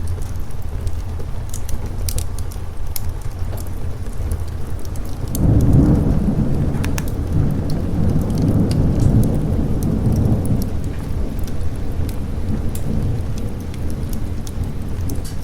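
Steady rain with a roll of thunder that swells about five seconds in and rumbles on for several seconds before fading. Scattered sharp crackles run through it.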